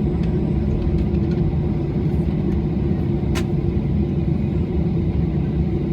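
Steady low rumble with a held drone, heard from inside an airliner's cabin as its engines and cabin air run before the take-off roll. A brief high chirp sounds about three and a half seconds in.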